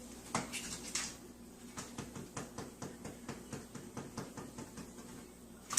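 A quick, irregular run of light taps and clicks, a few a second, over a faint steady hum.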